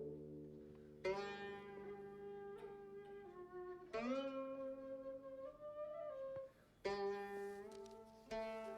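Instrumental background music: plucked string notes ringing on over held tones, with new notes struck about a second in, at four seconds and again near seven seconds.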